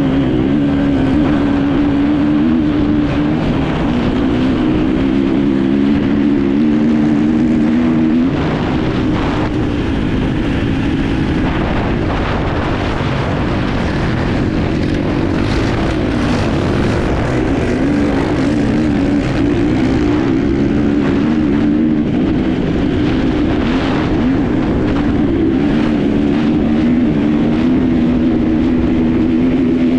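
Enduro motorcycle engine running hard under load, heard from a camera mounted on the bike. Its pitch keeps shifting with throttle and gear changes, over a constant rushing noise.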